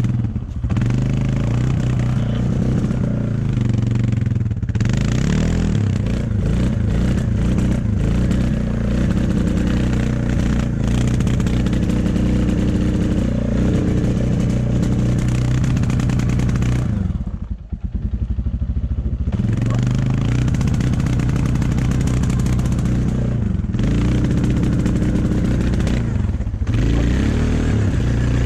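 A motor vehicle's engine running steadily under way, its pitch shifting now and then; it eases off briefly a little past halfway, then picks up again.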